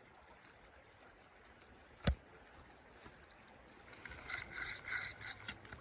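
A single sharp click about two seconds in, then a run of rubbing and scraping handling noises near the end.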